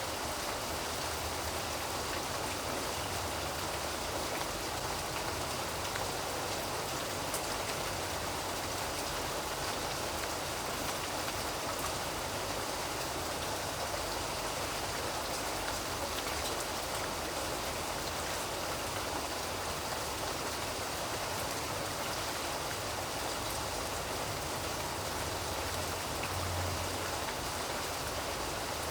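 Steady rain falling on a surface, an even hiss of many small drops with faint drop ticks; a brief low rumble about 26 seconds in.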